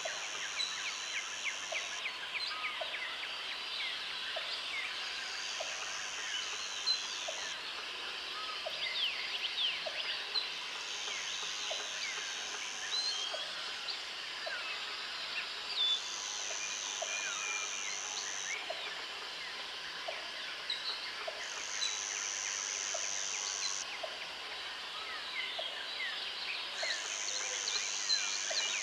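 Jungle ambience: many birds chirping and whistling in short rising and falling notes, over insects trilling in high bouts about two and a half seconds long that come back every five seconds or so. A faint low tick repeats about once a second.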